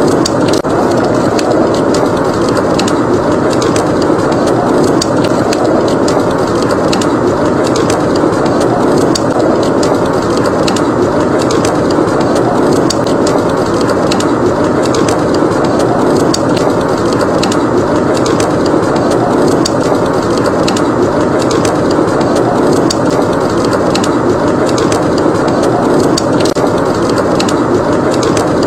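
Wood fire crackling in a fireplace, with many small sharp pops, over a steady rush of wind.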